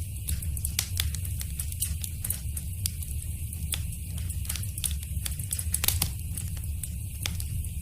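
Wood fire burning in a fireplace: a steady low rumble of the flames with frequent sharp crackles and pops scattered irregularly, one of the louder pops about six seconds in.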